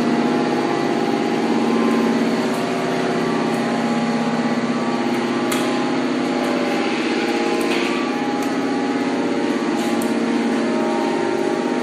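Hydraulic power unit of a scrap metal baler running steadily, a constant hum, with a few faint metallic clicks.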